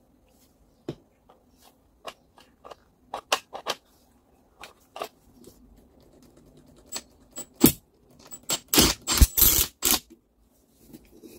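Small metal parts of a Fein angle grinder being handled on a workbench: scattered separate clicks and clinks, then a short, louder rattle about nine seconds in.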